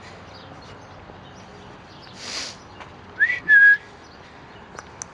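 A short whistle, the loudest sound: a quick rising note followed by a brief held one, a little past the middle, coming from either the pet common myna or the boy calling it. Shortly before it there is a brief breathy rush, and a few light sharp ticks near the end.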